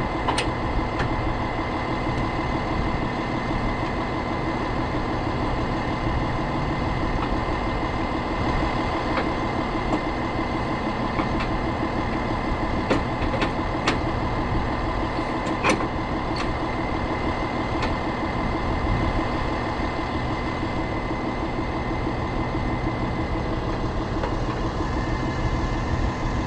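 Tow truck engine idling steadily, with a few sharp clicks and clanks over it.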